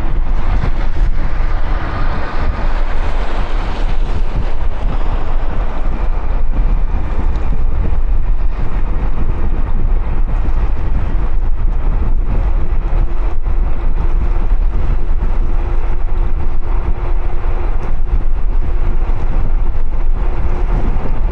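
Wind buffeting the microphone of an action camera on a moving bicycle: a loud, steady low rumble, with a faint steady hum underneath.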